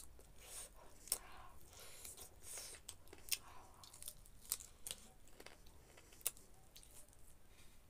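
A person chewing and biting into a piece of chicken on the bone, with irregular sharp mouth clicks.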